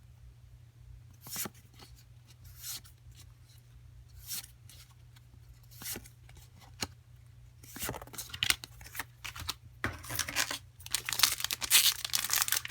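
Foil booster-pack wrappers being torn open and crinkled by hand. There are scattered short rustles at first, then a denser run of tearing and crinkling from about eight seconds in, as a badly opened pack is worked apart.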